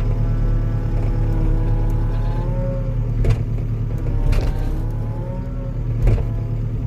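Skid steer's diesel engine running steadily under load, with a hydraulic whine that rises and falls as the machine pushes against a cluster of tree root balls. A few sharp knocks come in about three, four and six seconds in.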